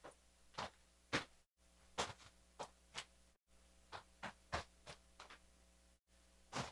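A series of faint, short clicks and knocks at uneven intervals, about fifteen in all, over a low steady hum.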